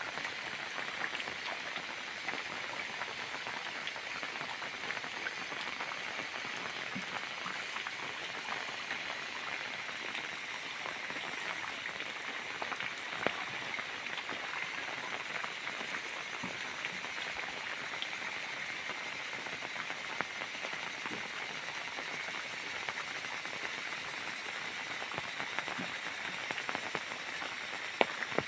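Steady rain falling on a surface: a dense, even patter of drops, with a few sharper single drop hits.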